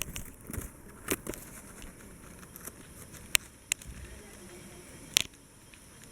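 A few sharp, separate clicks and crackles, five in all, over a faint steady hiss.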